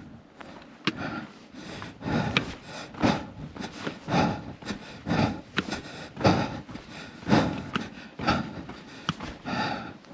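A hiker breathing hard in a steady rhythm of about one breath a second, with footsteps and a few sharp clicks on stair steps during the descent.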